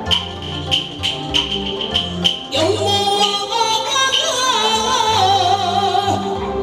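Taiwanese opera (gezaixi) music: sharp percussion strokes with a bright ring about twice a second over a steady accompaniment, then about two and a half seconds in a sliding, wavering melody line comes in over it.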